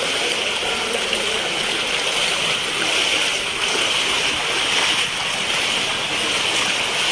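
Steady, continuous rushing of water.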